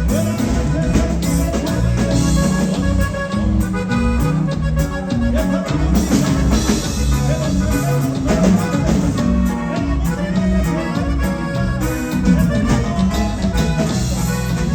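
Norteño band playing an instrumental break, the button accordion carrying the melody over bass and drums with a steady beat.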